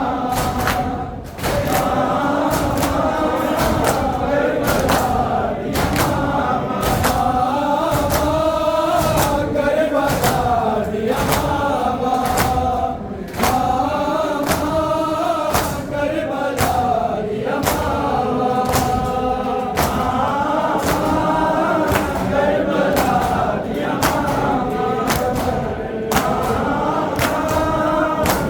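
A group of men chanting a noha (Muharram lament) in unison, with a steady beat of sharp thumps about one to two times a second under the singing.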